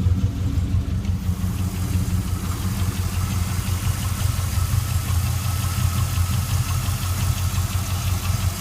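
A 2000 Camaro Z28's 5.7-litre LS1 V8 idling steadily and evenly, a smooth-running engine.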